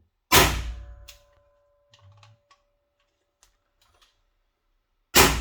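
Two shots from a T4E HDR 50 (TR50) .50-calibre CO2 revolver, about five seconds apart, each a sharp crack with a short ring. Faint clicks and a thin steady tone come in between.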